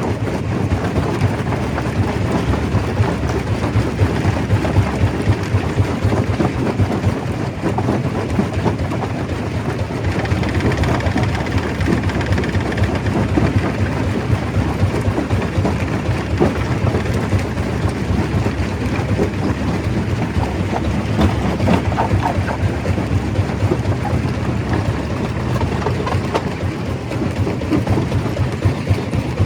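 Stone crusher running under load: a steady low rumble under a dense, continuous clatter of rocks being broken.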